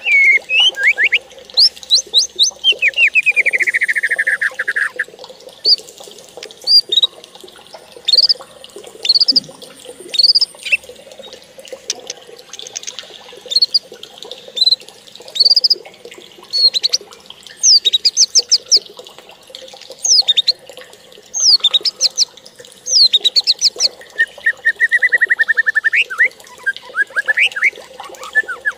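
Birds singing: a stream of short, quick chirps, with a longer falling trill about two seconds in and another trill near the end.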